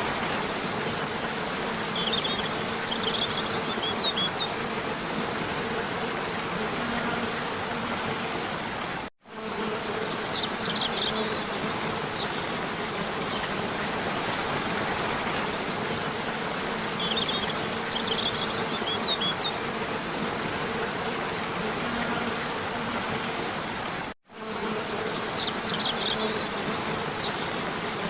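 Steady hissing ambient noise with short high chirps that recur every several seconds. The sound drops out for an instant twice, about fifteen seconds apart.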